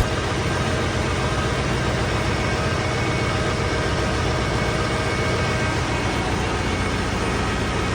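Steady drone of a ship's engine room with its diesel generators running, an even machinery noise with a low hum that does not change.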